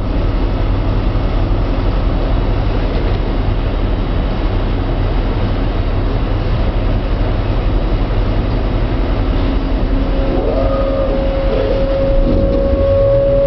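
Regional train standing at a platform, heard from inside the carriage: a steady low rumble and hum. About ten seconds in a steady whine joins, and near the end a second whine starts rising in pitch as the traction drive powers up and the train begins to pull away.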